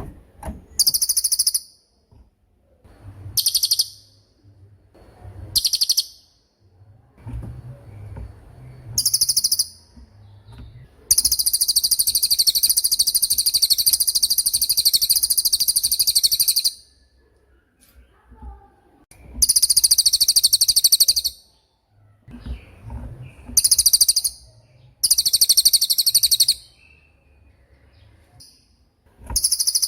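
Cililin songbird giving its 'tembakan' song: rapid, very high-pitched rattling trills in bursts. Most bursts last about half a second; two long runs last about five seconds and about two seconds, with short pauses between.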